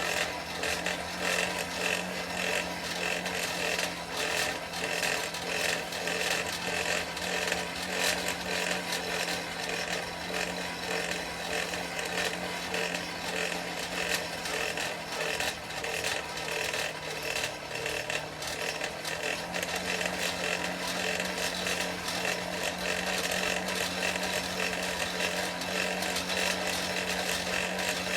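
Forge blower running steadily, a constant hum over a rushing air noise, with the fire crackling faintly as a chain link heats for a forge weld.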